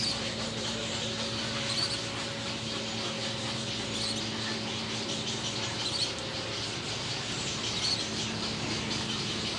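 A bird gives a short, high chirp about every two seconds, over a steady hiss and a faint low hum.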